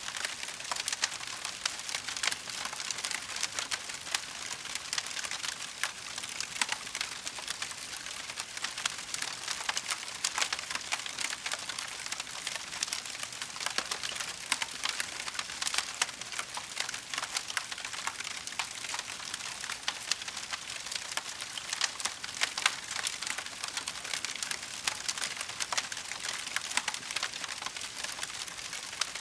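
Wood fire burning in a fireplace, crackling steadily with many small pops and snaps.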